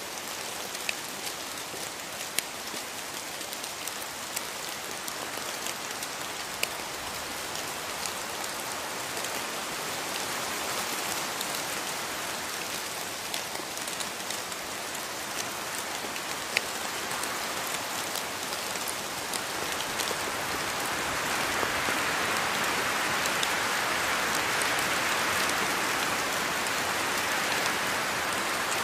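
Steady rainfall in a rainforest, with individual drops ticking sharply on leaves. The rain grows heavier about two-thirds of the way through.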